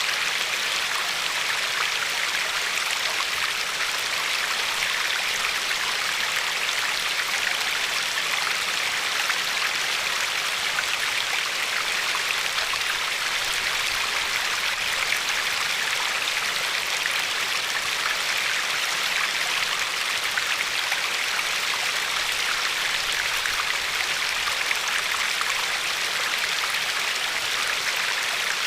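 River water flowing and lapping along a pebbly shore: a steady, even rush with fine splashing, bright rather than deep, with no change through the stretch.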